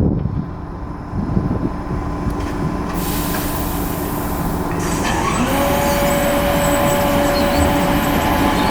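Electric multiple unit train running at the platform: a steady low rumble, with a whine that rises briefly and then holds steady from about five seconds in.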